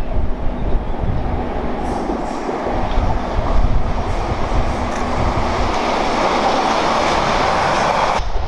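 Class 701 electric multiple unit running past, its wheels rumbling on the rails and over the junction's pointwork. The noise grows louder as the train nears, then cuts off suddenly near the end.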